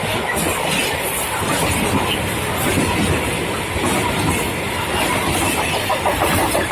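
Freight train passing, its wagons rolling over the rails with a loud, steady rumble and a rapid regular clatter near the end.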